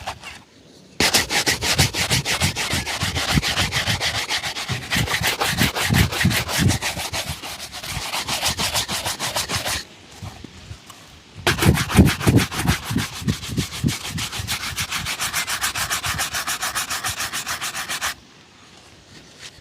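A shoe being buffed with rapid back-and-forth rubbing strokes during a shoe shine. There are two long spells of fast, even strokes with a short pause between them about halfway through.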